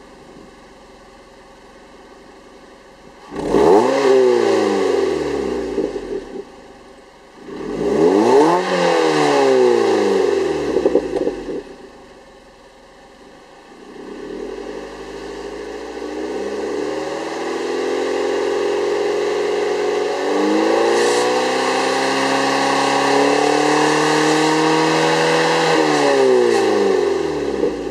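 Car engine through a prototype Suruga Speed dual center pipe and loop-sound muffler: idling, then two quick revs that fall back to idle, then a slower climb to higher revs held for several seconds before dropping back near the end.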